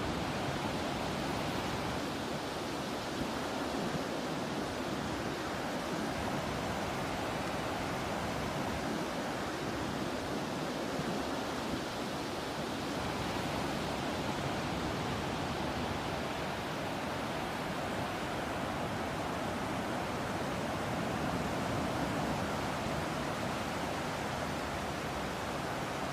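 Ocean surf washing in a steady, continuous rush of noise, with no distinct wave breaks standing out.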